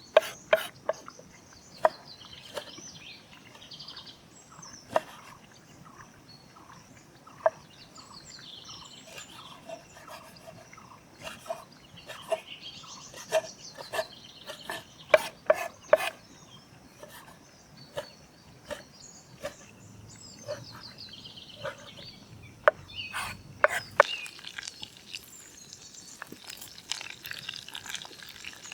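Irregular sharp taps and knocks of outdoor cooking work, clustered in several busy stretches, with birds singing repeated high chirping trills in the background.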